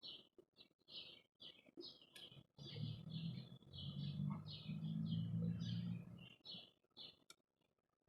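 Small birds chirping over and over, about three short chirps a second. From about two and a half to six seconds in, a louder low hum sounds beneath them. Near the end the sound drops out almost completely.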